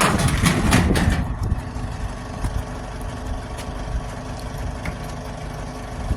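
Truck engine running steadily at a low rumble, with a burst of clattering knocks in about the first second.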